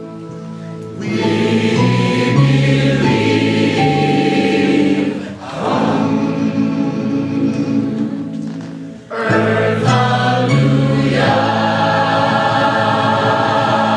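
Gospel choir singing with instrumental backing, in sustained chords, easing off briefly about five and a half seconds in and again near nine seconds before coming back full.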